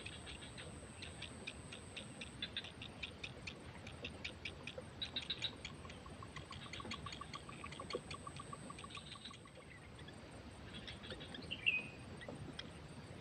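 Outdoor wildlife ambience. Rapid dry ticking calls repeat several times a second over a steady, very high-pitched insect drone. Midway, a separate run of quick, even pulses sounds for a few seconds, and a short chirp comes near the end.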